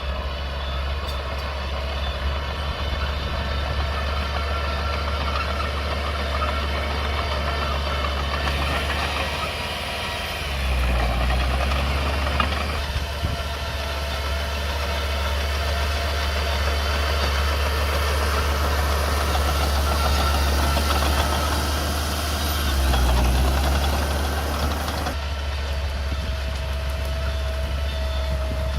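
Diesel engine of a Komatsu mini bulldozer running steadily. It swells twice, about ten and twenty-three seconds in, with a deeper, louder note as it takes load.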